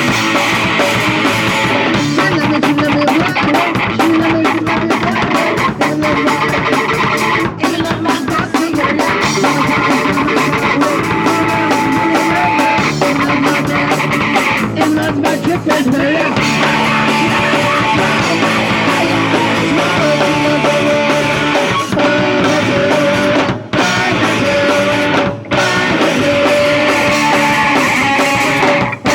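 Punk rock band playing live: electric guitar and drum kit, loud and dense, with two brief stops in the music near the end.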